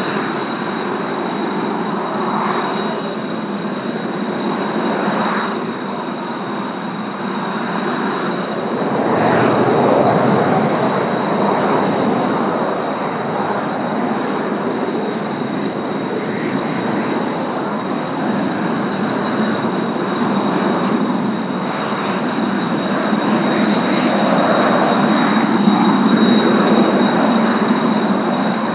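Kawasaki T-4 jet trainers' turbofan engines running: a steady high whine over a broad rumble that swells and fades. About 17 seconds in, part of the whine glides down in pitch as an engine's power changes.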